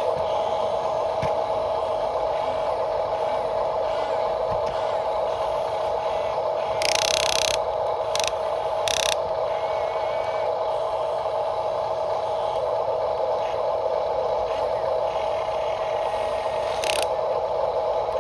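Small electric motors and plastic gearboxes of a radio-controlled construction model running, a steady whine, with short scraping clatters about seven, eight, nine and seventeen seconds in.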